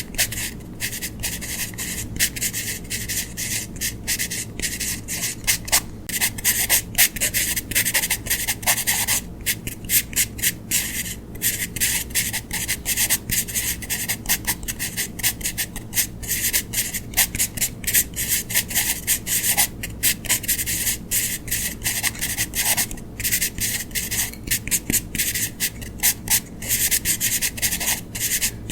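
A pen, marker or crayon scratching across paper in rapid back-and-forth strokes, a dry rubbing hiss repeated many times a second as an area is filled in.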